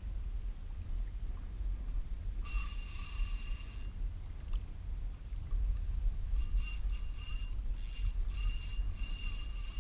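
Fishing reel whirring in bursts, once for about a second and a half and then in a run of short stuttering spurts near the end, over a low steady rumble.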